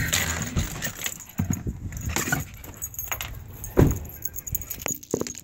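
Keys and metal tags jangling, with scattered clicks and knocks inside a parked car, and a single louder thump near the end.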